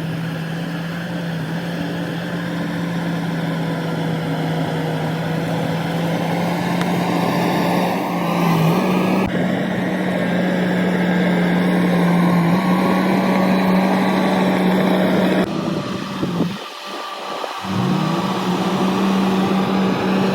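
Shantui DH17-C2 bulldozer's diesel engine running steadily under working load, its pitch creeping slightly higher in the first half. The sound changes abruptly twice and briefly drops away for about a second near the end.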